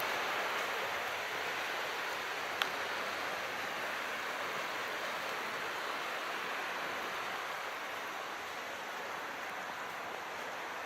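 Calm sea water washing in a steady, even hiss that eases slightly near the end, with a single sharp click about two and a half seconds in.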